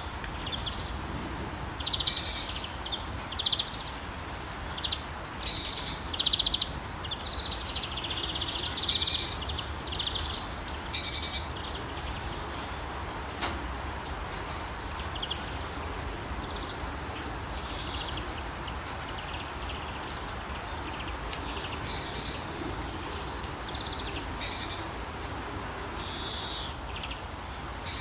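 Small birds chirping and singing over a steady hiss of falling rain. The calls come in clusters through the first dozen seconds, thin out for a while, then pick up again near the end.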